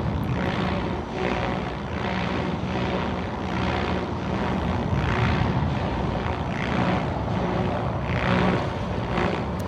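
Radio-controlled model aircraft buzzing overhead, its motor's pitch and loudness rising and falling over and over as it flies about.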